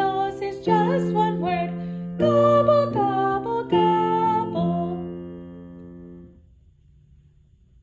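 Children's song sung by a woman with acoustic guitar accompaniment, reaching its last line; the final chord rings and fades out about six seconds in.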